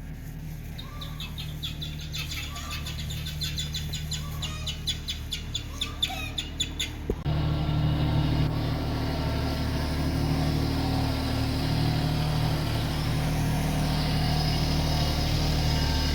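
Tractor engine running steadily, a low hum that gets abruptly louder about seven seconds in. Birds chirp quickly over it during the first half.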